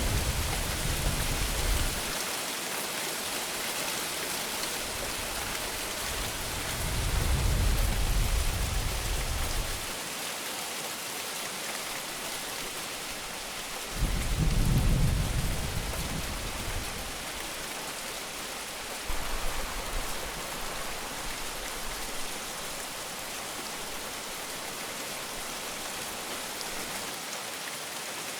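Heavy rain falling steadily in an even hiss. Low rolls of thunder rumble under it four times: one at the start, louder ones about a third of the way in and about halfway, and a fainter one shortly after.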